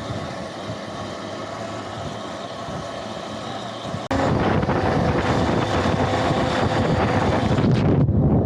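Electric off-road motorbike being ridden: a steady motor whine under wind rushing over the microphone and tyre noise. The sound jumps abruptly louder about four seconds in.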